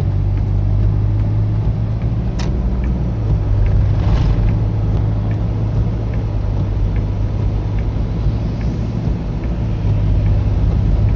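Car driving at highway speed, heard from inside the cabin: a steady low rumble of road and engine noise with a couple of faint ticks.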